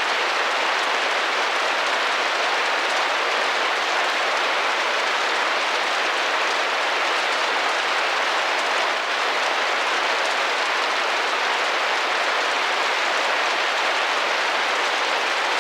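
Steady rain pattering against a window pane, an even unbroken hiss of drops with no single taps standing out.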